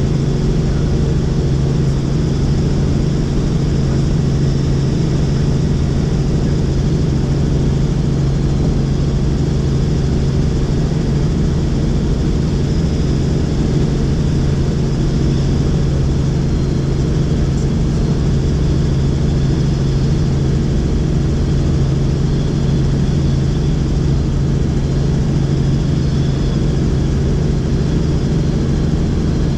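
Helicopter in flight, its rotor and engine running steadily as one continuous low hum that does not change.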